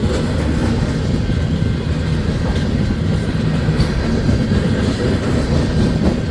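Union Pacific train rolling past at close range: a steady, loud rumble of its wheels on the rails.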